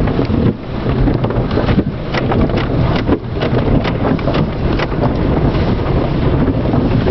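Wind buffeting the microphone over a car's running engine, with many small clicks and knocks throughout.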